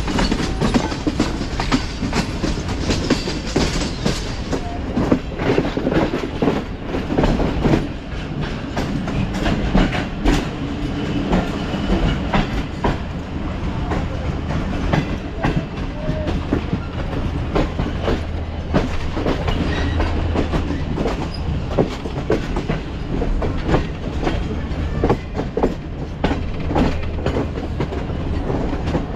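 Train running along the track: a steady rumble with a low hum and a constant run of irregular clicks and knocks from the wheels over the rails.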